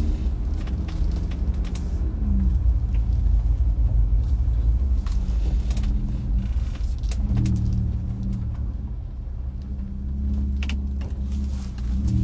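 Steady low engine and road rumble heard from inside a moving truck's cabin, with a few scattered clicks.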